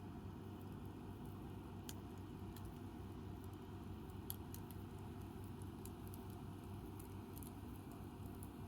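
Wood campfire crackling softly, with scattered small pops and snaps; the sharpest pop comes about four seconds in. Under it runs a steady low background rumble.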